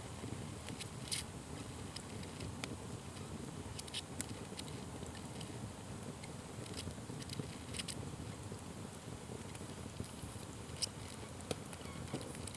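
Campfire burning: a steady low rush of flames with scattered sharp crackles and pops at irregular intervals.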